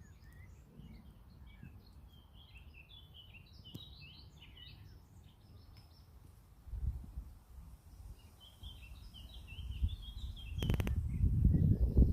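Small birds chirping in short, quick notes, with gusts of wind rumbling on the microphone: a brief gust about seven seconds in and a stronger, louder one near the end. A few clicks come just before the last gust.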